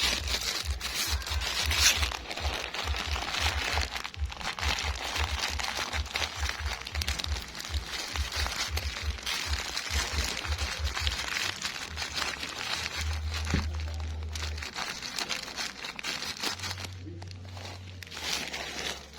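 Dry bird-feed pellets being crushed into a fine meal, a dense crackling and crunching of many small grains breaking.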